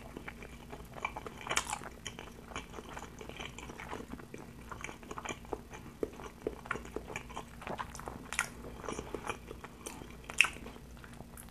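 Close-miked chewing of spicy instant noodles with the mouth closed: soft, wet, irregular mouth clicks and smacks, a few of them sharper and louder.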